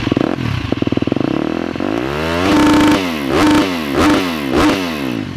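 2018 KTM 250 SX-F single-cylinder four-stroke dirt bike engine running through a new FMF 4.1 exhaust: idling, then revved up and held briefly about two seconds in, then blipped three more times and dropped back to idle.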